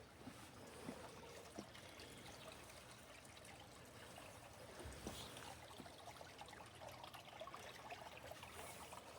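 Faint trickling water with scattered small drips and ticks, and one soft low thump about five seconds in.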